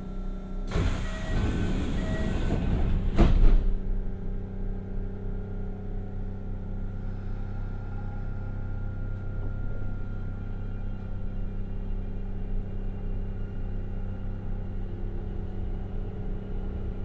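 Kintetsu 1021 series electric train running, heard from inside the car as a steady low hum. A loud rushing noise swells in about a second in, peaks around the third second and dies away.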